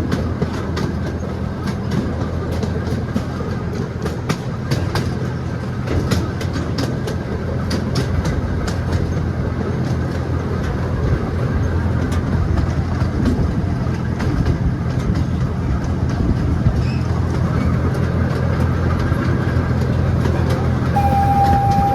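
Miniature train running along, its locomotive engine humming steadily and its wheels clicking over the rail joints. A steady high tone comes in near the end.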